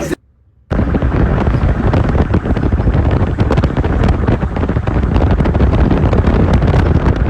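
After a brief drop-out, loud rough rumbling with dense crackle, like wind buffeting the microphone.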